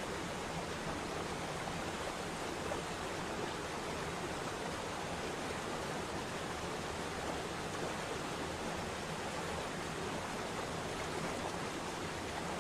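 Steady rush of falling water from a mountain waterfall, an even, unbroken hiss.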